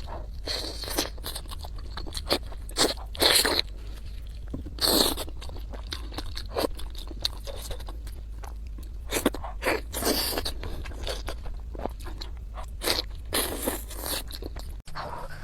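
Crunchy food being bitten and chewed close to the microphone, with irregular sharp crunches every second or so over a steady low hum.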